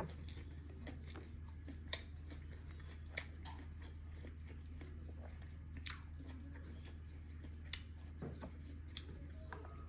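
Faint eating sounds: chewing, with a few short sharp clicks scattered through, over a steady low hum.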